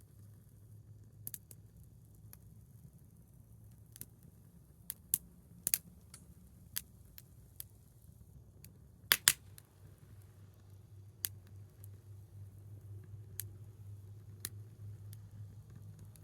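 Small wood fire crackling: scattered sharp snaps and pops at irregular intervals, the loudest a quick double pop about nine seconds in, over a faint low hum.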